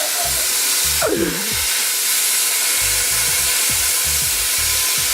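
Plasma cutter running, a loud, steady hiss of air and arc that cuts off suddenly at the end.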